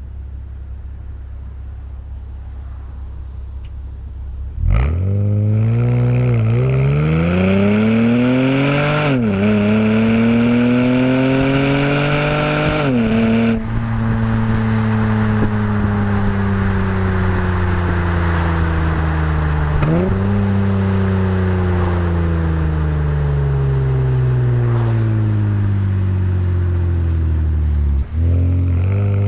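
Acura TL SH-AWD's 3.7-litre V6 through an ATLP aftermarket exhaust, accelerating hard. After a steady low drone, the throttle opens wide about five seconds in and the revs climb, with two upshifts heard as sudden drops in pitch. The revs then fall away slowly, with a short jump in revs about twenty seconds in.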